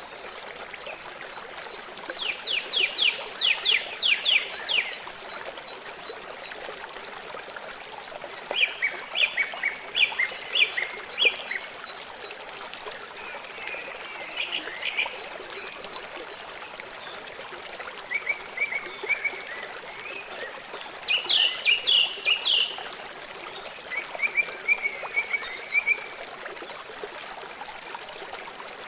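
A songbird singing short phrases of rapid repeated notes, one phrase every few seconds, over the steady rush of a stream.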